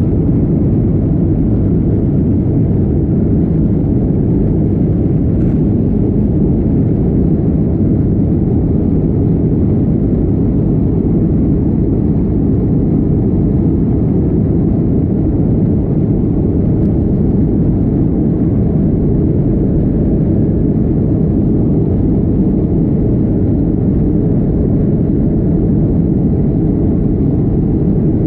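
Steady low rumble of an Airbus A321's engines and rushing air, heard from inside the passenger cabin, at an even level.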